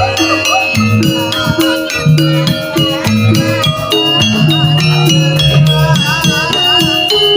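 Javanese gamelan music accompanying a jaranan horse dance: struck metallophone notes repeating in a steady pattern, with a wavering, ornamented melody line above them about a second in and again in the second half.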